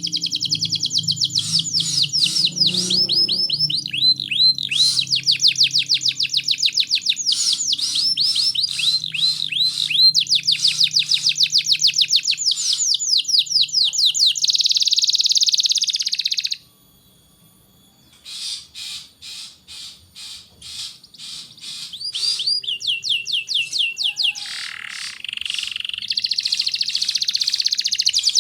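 Domestic canary singing long, fast trills of rapidly repeated high notes. About two-thirds of the way through it breaks off for a moment, then picks up again with spaced chirps that build back into trills.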